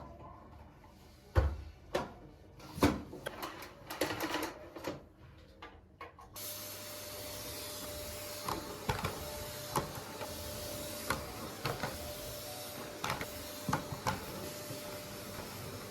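Several separate knocks and clicks of things being handled, then about six seconds in a steady hiss with a faint hum starts, with scattered clicks over it.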